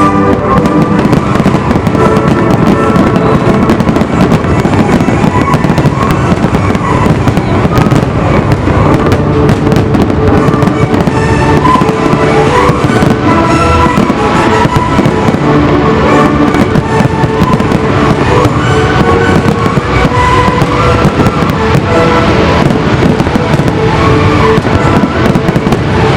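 Fireworks bursting in rapid, dense succession over loud music.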